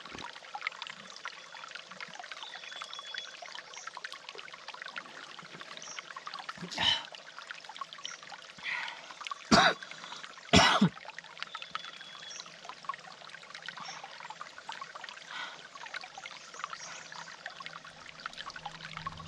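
Small mountain stream trickling steadily, with three short louder sounds breaking through about a third of the way in and near the middle.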